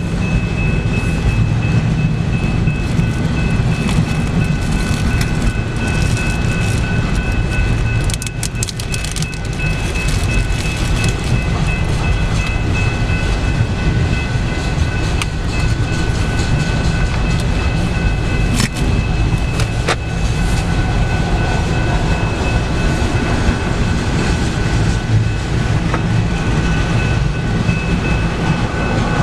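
Canadian Pacific freight train rolling past: a steady low rumble of the cars on the rails, with a thin steady high-pitched ringing over it and a few sharp clicks about eight, eighteen and twenty seconds in.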